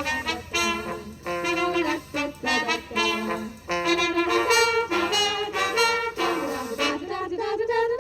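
1940s-style swing music: a brass instrumental passage with trumpets, saxophones and trombones, without singing.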